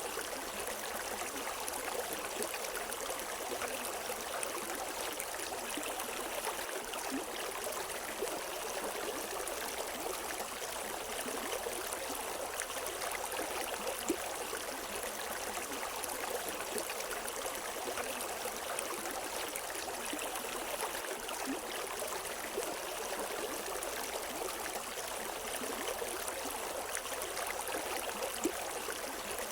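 River water flowing and splashing steadily over rocks, with no birdsong.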